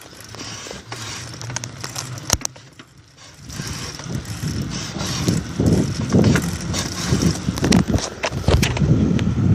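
A bicycle being ridden, with scattered clicks and rattles. From about three and a half seconds in, wind buffeting the microphone grows louder as the bike picks up speed.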